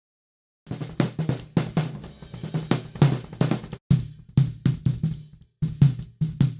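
Multitrack drum kit recording played back during mixing: kick, snare, hi-hat and cymbals. It starts about a second in, out of dead silence, and playback stops briefly twice.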